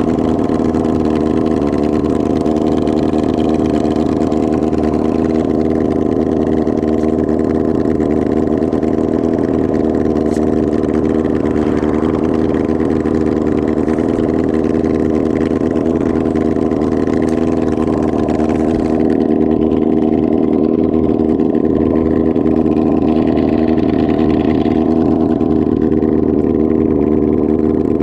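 1999 Kawasaki ZR-7's air-cooled 750 cc inline-four running loud and unmuffled, its exhaust muffler missing. The engine note holds steady, with no revving up or down.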